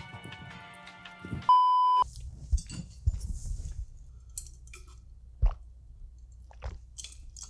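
Close-miked chewing of a mouthful of food, with soft wet clicks and smacks. It starts about two seconds in, after background music that is cut off by a loud steady beep lasting about half a second.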